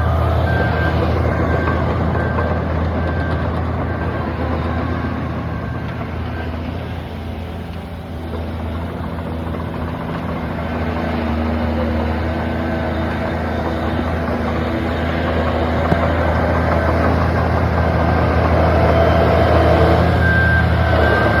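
Diesel engines of heavy earthmoving machinery running steadily, easing off about a third of the way in and building up again toward the end. A vehicle's reversing alarm beeps through the first few seconds and again near the end.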